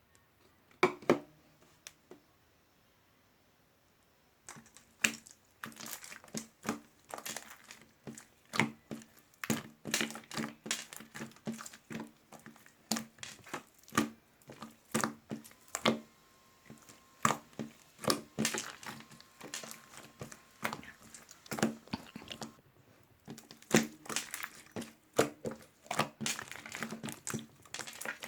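Crinkling and crackling from handling a peach drink's packaging up close. A few sharp clicks come near the start, then after a short pause comes a long, dense run of small clicks and crackles.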